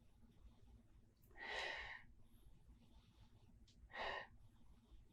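A man sniffing a glass of beer to take in its aroma: two noisy breaths through the nose, a longer one about a second and a half in and a shorter one about four seconds in.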